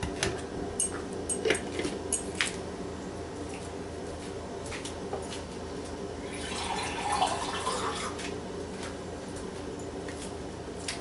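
A spoon clicking and tapping against a mixing bowl as flour batter ingredients are stirred, then a longer rustling, scraping stretch about six seconds in, over a steady background hum.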